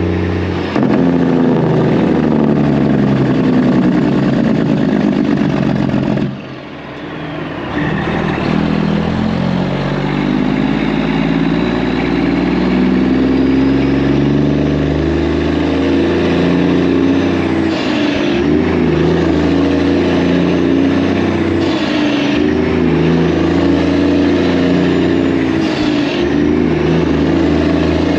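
Semi truck's diesel engine running steadily under way, dipping briefly about six seconds in before picking back up.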